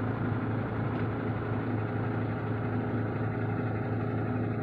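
MAN TGS truck's diesel engine idling steadily at about 550 rpm, running evenly with no misfire.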